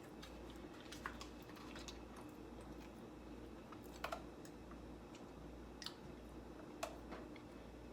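Faint sounds of a person eating close to the microphone: a few scattered soft clicks and ticks, about four over several seconds, over a steady low hum.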